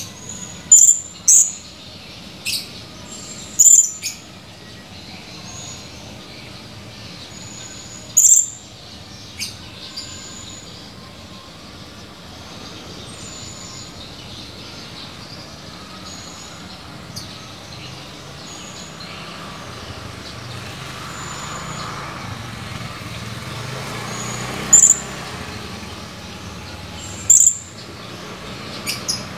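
Blue-crowned hanging parrot (serindit) giving short, sharp, high-pitched calls, singly or in quick pairs, a burst of several in the first few seconds, then sparser, with more near the end. A steady background noise with faint high insect tones runs underneath and swells in the middle.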